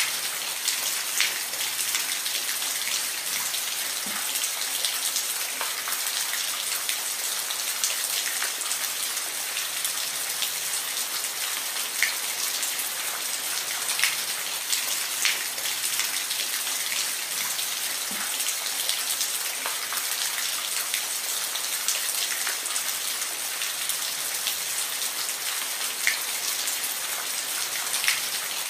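Steady rain falling, an even hiss with scattered individual drops ticking close by on a hard surface.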